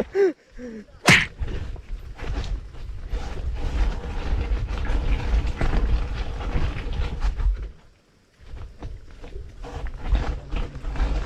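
Wind rumbling and buffeting on the microphone while riding a bicycle, with knocks and rattles from the ride. A sharp click comes about a second in, and the sound cuts out briefly about eight seconds in.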